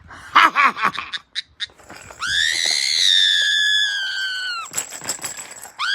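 Black-headed caique screeching in a temper tantrum: a quick run of short squawks, then one long high screech of about two and a half seconds that drops in pitch as it ends, and another starting near the end.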